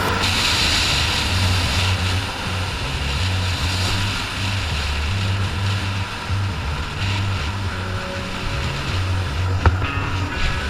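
Off-road vehicle engines and rushing wind under background music with a stepping bass line, with one sharp knock near the end.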